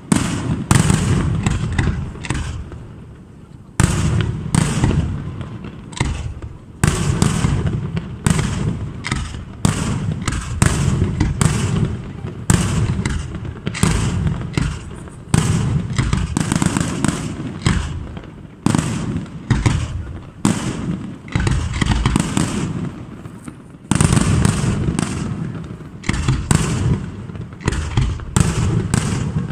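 Fireworks display: aerial shells bursting in rapid succession, several bangs a second, each trailing off in a low rumble, with a short lull about three seconds in.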